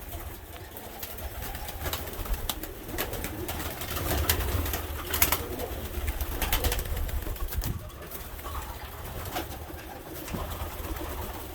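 Domestic roller pigeons cooing in a loft, with scattered sharp clicks and knocks over a low rumble.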